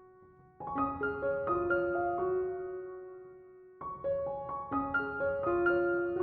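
Background music: a gentle piano melody of single notes that ring and fade, played in two short phrases. The first phrase starts about half a second in and the second just before four seconds.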